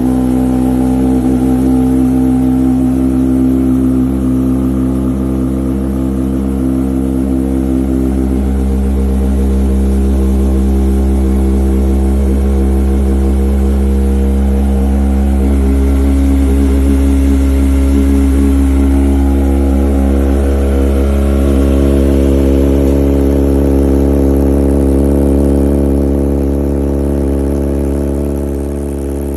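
Kawasaki Ninja ZX-25R's 249 cc inline-four engine running at a fairly steady speed, its note shifting slightly a couple of times.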